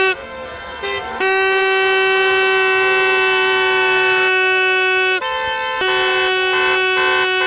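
Car horns honking in celebration: a short toot about a second in, then several horns held together in one long blast for about four seconds, a brief break, and another long blast.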